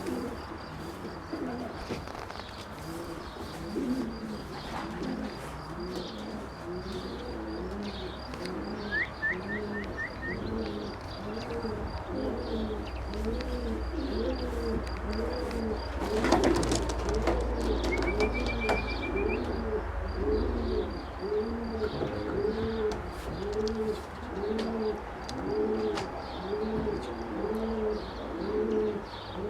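Young racing pigeons cooing, many calls overlapping in a steady repeating chorus, with a few high chirps from another bird and a short sharp burst near the middle.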